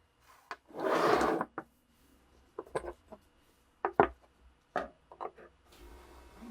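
Workbench handling sounds from hands working on metal parts and tools: a short scraping rub about a second in, then scattered sharp clicks and knocks, and a softer rubbing near the end.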